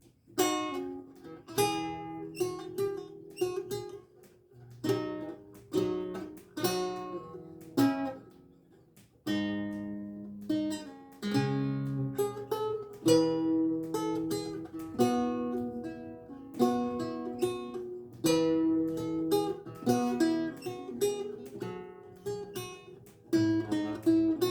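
Renaissance lute with gut strings played solo: plucked single notes and chords in slow phrases, each note struck and left to ring away, with a brief pause about nine seconds in.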